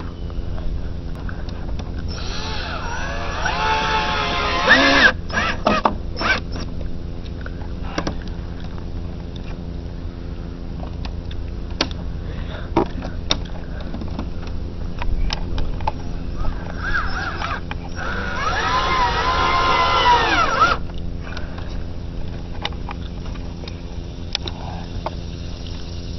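Power drill driving screws through a boat's side panel, in two runs of a few seconds each, its whine bending in pitch as the screw is driven. Scattered clicks and knocks come between the runs.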